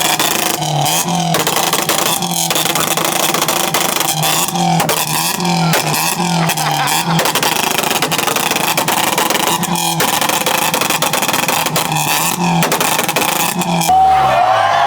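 Car engine held on a two-step launch limiter, bouncing off the rev limit with a stuttering note and a rapid string of exhaust pops and cracks. Near the end the revs fall away.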